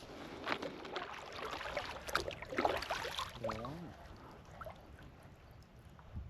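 Water splashing and sloshing around a kayak, with irregular clicks and splashes for the first three seconds or so, then quieter. A short wavering pitched sound, like a voice, comes about three and a half seconds in.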